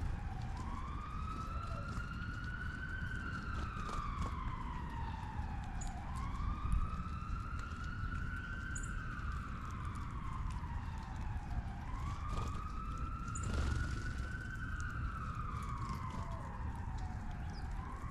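Emergency vehicle siren sounding a slow wail, its pitch rising and falling about three times, roughly every five to six seconds, over a steady low background rumble.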